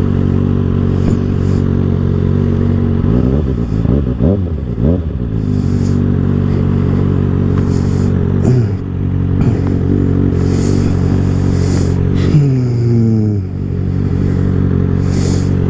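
2024 Kawasaki ZX-6R's 636 cc inline-four through an M4 exhaust, running at a steady high speed. The engine note drops twice as the throttle is eased off, over wind rushing on the helmet microphone.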